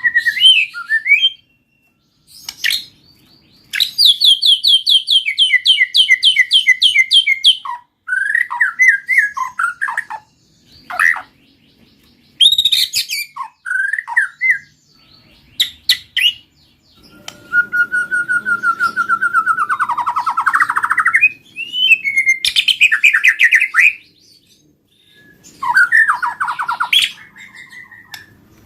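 White-rumped shama singing in full voice: loud, varied phrases of clear whistles and fast trills, broken by short pauses.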